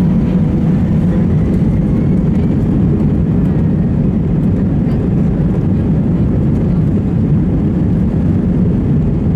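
Airbus A320 jet engines at takeoff thrust heard from inside the passenger cabin: a loud, steady, deep rush of engine and airflow noise with a low rumble.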